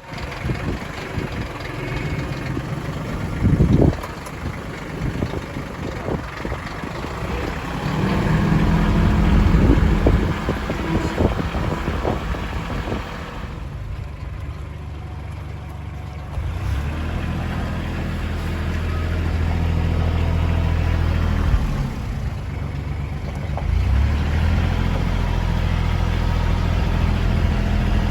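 Tractor engine running, its sound stepping up twice as the revs or load change, with a few knocks in the first few seconds.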